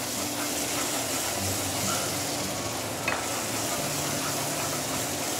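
Chilli sambal paste sizzling in oil in a non-stick frying pan while a wooden spatula stirs and scrapes through it. There is one light tap about three seconds in.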